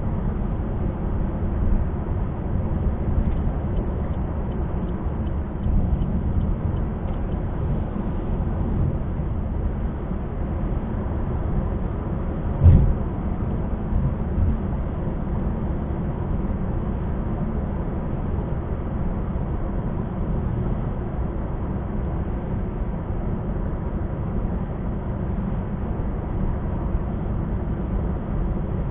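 Steady rumble of a car's tyres and engine at highway speed, heard from inside the cabin, with a short thump about thirteen seconds in and a smaller one shortly after.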